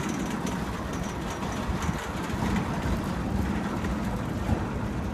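Freight train cars rolling past, a steady rumble of steel wheels on the rails with faint clicks as the train gathers speed.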